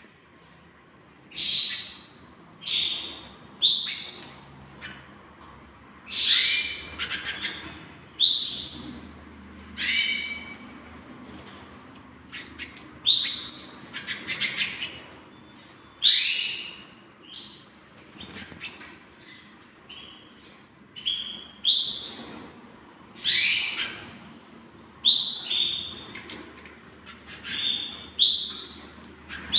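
Canaries calling: short, high-pitched chirps repeated every second or two, some in quick pairs.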